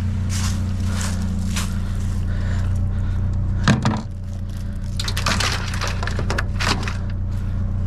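Trash being rummaged through in a dumpster: objects knocking and clattering as they are moved, with one sharp knock about four seconds in and a busier spell of clatter near the end, over a steady low hum.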